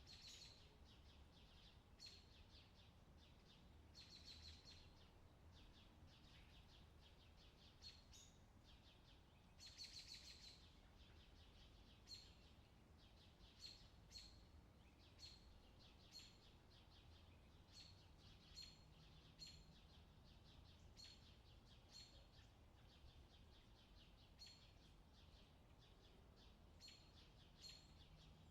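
Faint birdsong: small birds giving short repeated chirps about once a second, with a couple of longer trilling phrases about 4 and 10 seconds in, over a low steady background hum.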